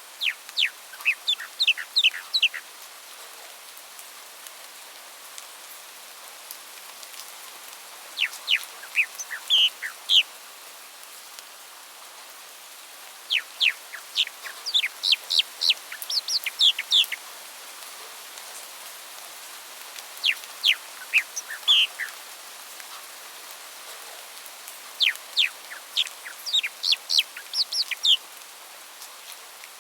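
A songbird singing repeated phrases of quick, sharp notes that sweep downward, each phrase a couple of seconds long with pauses of a few seconds between, over a steady hiss like rain.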